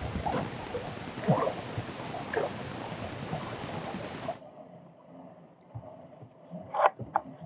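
Water sloshing around a plastic kayak at the shoreline, a steady rushing noise with scattered knocks against the hull. About four seconds in it cuts off abruptly to a much quieter background, with a few sharp clicks near the end.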